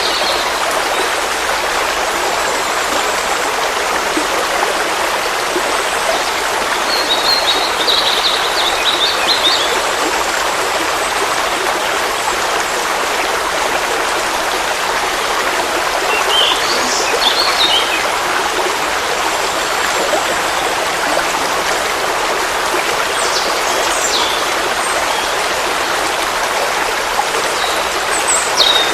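Forest stream flowing steadily, a continuous even rush of water. A bird chirps briefly a few times over it, with a short run of notes about a third of the way in and calls again near the end.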